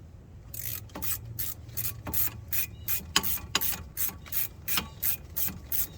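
Hand ratchet wrench being swung back and forth to run bolts in, its pawl clicking in short bursts about three times a second, starting about half a second in.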